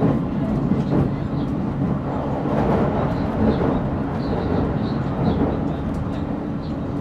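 Running noise inside a JR Central 313 series 0 subseries electric multiple unit's motor car as the train travels. There is a steady low hum from the traction drive, under a continuous rumble of wheels on rail.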